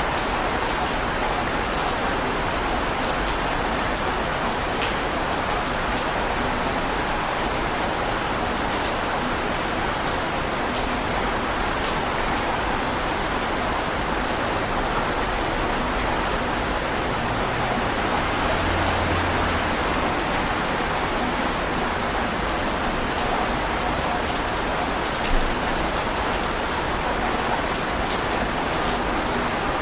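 Steady heavy rain falling, a dense even hiss with scattered drop ticks and one brief louder tap about 25 seconds in.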